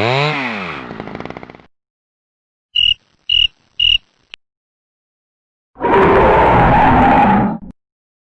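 Separate sound effects played one after another: a pitched sound wobbling down and up, then three short high beeps and a click, then a noisy burst of about two seconds.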